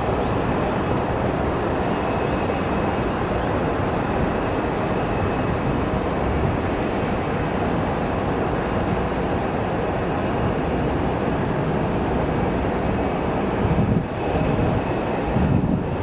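Jet airliner engines running, a steady loud noise with a faint high whine through it.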